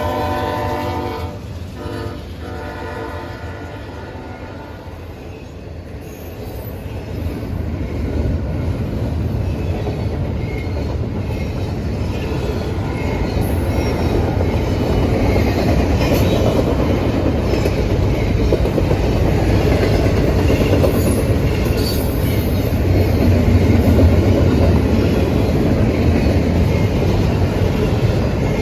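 Locomotive horn chord ending just after the start, with one more short blast about two seconds in. Then the train's rumble and wheel clatter build from several seconds in and stay loud and steady as the cars roll by.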